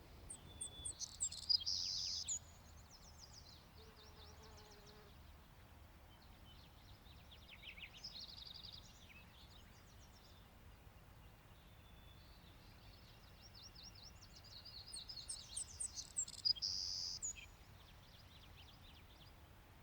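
A songbird singing three long phrases of rapid, high notes, each ending in a fast buzzy trill: one right at the start, a shorter one about eight seconds in, and a longer one near the end.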